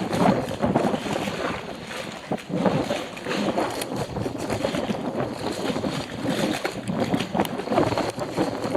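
Strong wind buffeting the microphone, rising and falling in gusts.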